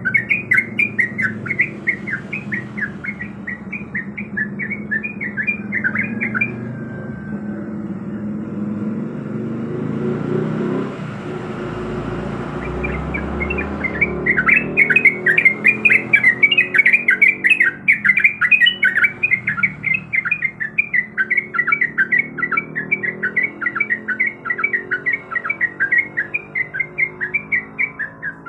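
Sooty-headed bulbul singing a fast, chattering song of quickly repeated notes, in two long bouts with a pause of several seconds in the middle. A low rumble runs underneath and grows louder during the pause.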